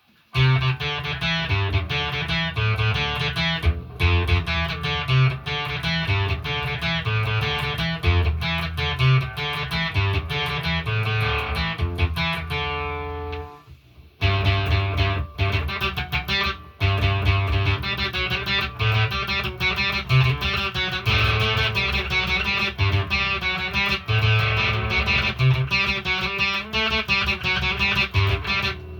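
Electric guitar playing a continuous riff of picked notes over a rhythmic low end. It breaks off briefly about fourteen seconds in, then picks up again.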